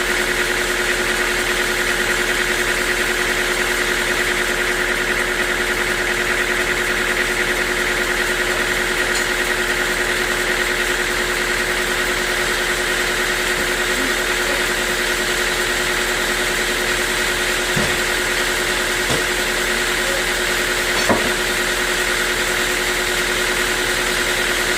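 Sawmill machinery running steadily: a constant hum with a higher whine over it. A couple of faint knocks come late on.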